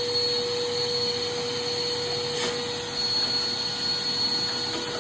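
Vacuum cleaner running steadily, its motor giving an even rushing noise with a constant hum and a faint high whine.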